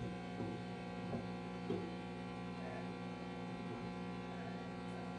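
Steady electrical hum with a few faint, small knocks in the first two seconds.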